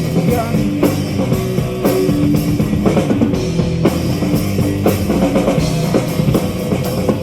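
Live metal band playing an instrumental passage: a drum kit beating a steady rhythm under distorted electric guitars and bass, with no vocals.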